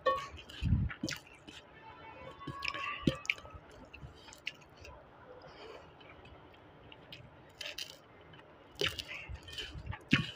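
Close-up chewing of a mouthful of rice, with wet lip smacks and mouth clicks and the squish of fingers mixing rice and chutney on a steel plate.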